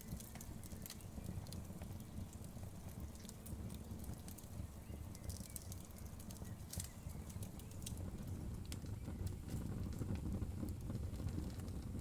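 Wood fire crackling: scattered small sharp pops and snaps over a low, steady rumble of burning.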